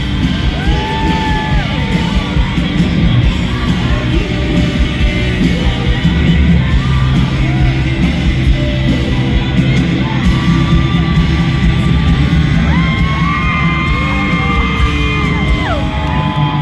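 Live rock band playing loudly in a large hall, with heavy bass and drums and a voice singing long held notes, and yells from the crowd mixed in.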